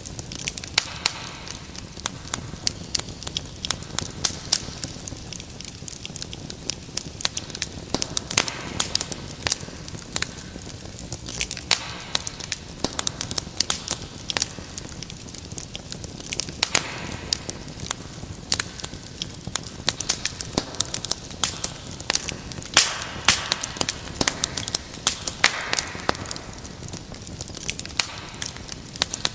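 Fireplace fire crackling: dense, irregular sharp pops and snaps, several a second, over a steady low hiss.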